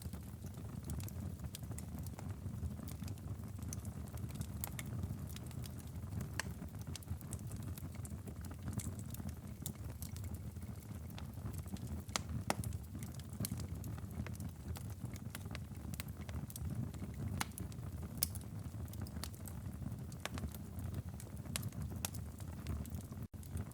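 Wood fire crackling and popping in a fireplace, with sharp irregular pops over a steady low rumble of the flames.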